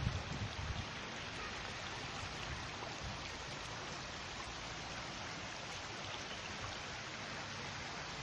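Steady, even rush of flowing water, like a stream, with some low wind buffeting on the microphone in the first second.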